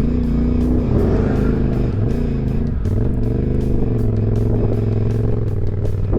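Motorcycle engine running under load, its revs wavering up and down.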